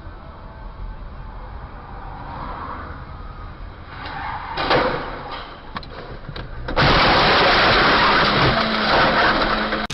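Car driving noise in a dashcam recording, with a loud knock about halfway through. Near the end comes a loud harsh rushing noise that lasts about three seconds and cuts off suddenly.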